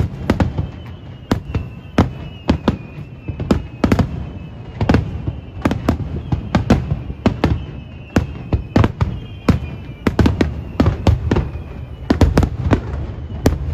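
Aerial fireworks shells bursting in rapid succession, several sharp booms a second over a continuous low rumble of echoing detonations.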